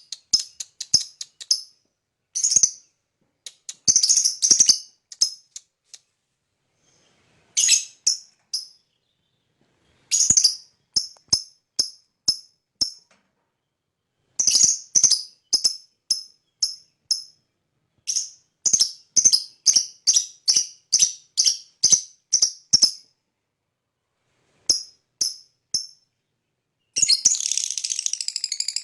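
Lovebird chirping in quick runs of short, sharp, high chirps, several a second, each run fading off before a pause. Near the end a dense, continuous rasping chatter starts.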